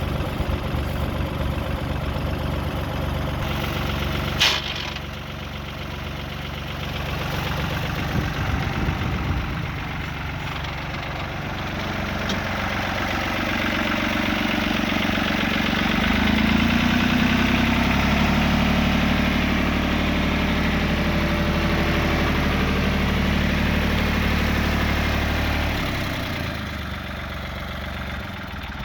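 1990 Fiat-Hesston 55-46 tractor's diesel engine running, with one sharp click about four seconds in. About twelve seconds in the engine speeds up, holds at higher revs for about ten seconds, then drops back to idle near the end.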